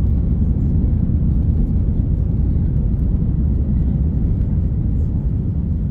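Airbus A350-900 airliner heard from inside the passenger cabin: a loud, steady, low rumble of its Rolls-Royce Trent XWB engines and the airflow.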